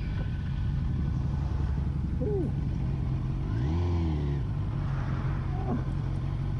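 Motorcycle engine running steadily, its pitch dipping and rising again about four seconds in.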